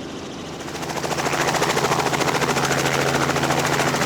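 Helicopter running, its rotor blades beating in a fast, even chop over a steady engine hum; it grows louder about a second in and then holds steady.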